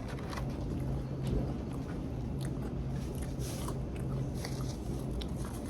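A person chewing fried food close to the microphone, with scattered short crackly clicks as it is bitten. A steady low hum runs underneath.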